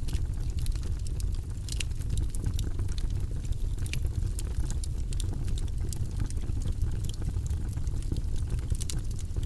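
Wood logs burning in a fireplace: a steady low rumble of the fire with frequent sharp crackles and pops scattered irregularly through it.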